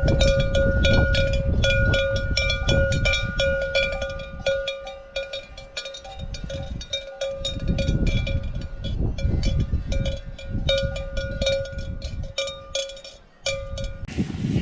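Cowbells worn by cattle clanking irregularly and continuously, struck over and over while they ring, with a low rumble underneath. The bells stop abruptly near the end.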